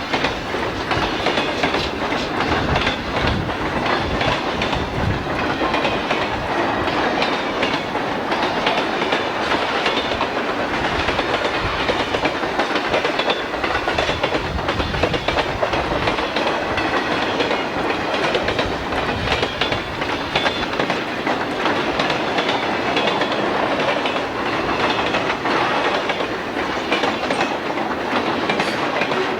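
Freight train cars rolling past, a steady rumble of wheels on rail with rapid clicking over the rail joints.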